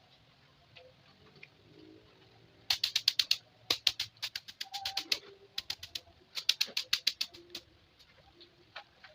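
Several bursts of rapid, sharp clicks or taps, about eight to ten a second, starting a little under three seconds in and stopping shortly before the end.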